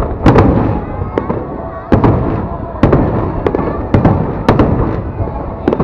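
Aerial fireworks display: a string of sharp bangs from shells bursting at irregular intervals, some coming in quick pairs, over a continuous rumble and crackle.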